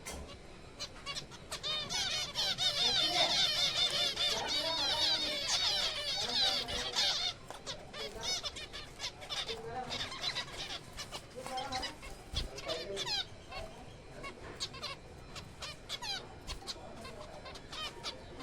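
Colony of zebra finches calling: a dense chorus of short, nasal honking calls that thins out suddenly about seven seconds in, leaving scattered calls.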